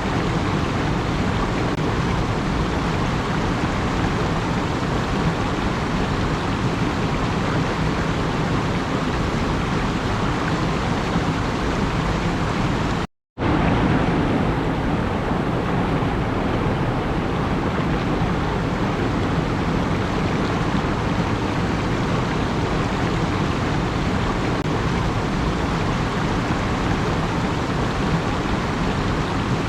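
Steady, even rushing noise with no tone or rhythm, cut by a split-second gap of silence about thirteen seconds in.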